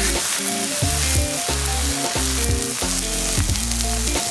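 Food sizzling and frying in a hot pan, a steady hiss, with background music of held, stepping notes playing over it.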